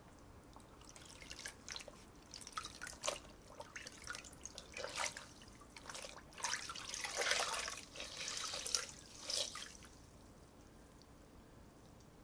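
Water foley: irregular drips and small splashes, scattered at first, then denser splashing through the middle, stopping about ten seconds in.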